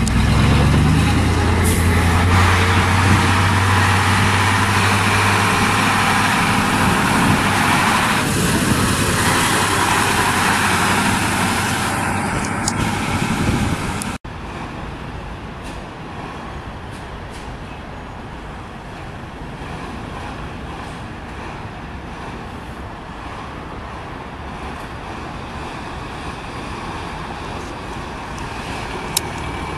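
Heavy fire-truck diesel engines running loudly with a steady deep drone as the trucks move off. About halfway through, a cut brings quieter engine and road noise from other fire trucks.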